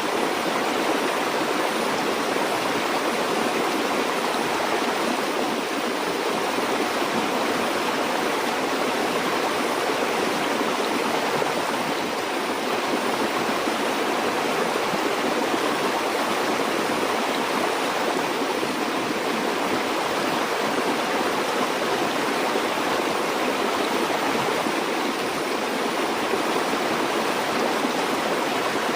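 Stream water flowing over rocks, a steady rushing and gurgling without pause.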